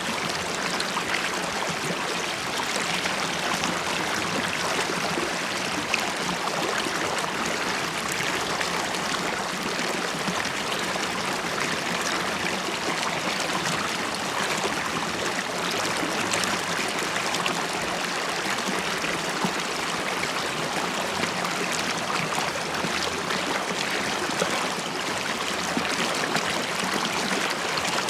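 A river stream flowing over stones, a steady babbling rush with gurgling and small splashes.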